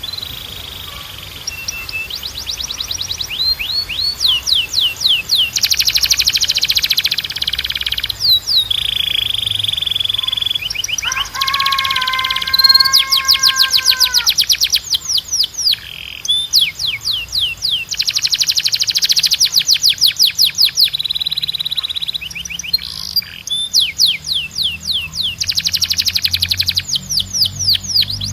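Domestic canary singing continuously: fast trills of rapidly repeated falling notes alternating with held whistled notes. Just before the middle it drops to a lower, fuller held note lasting a couple of seconds.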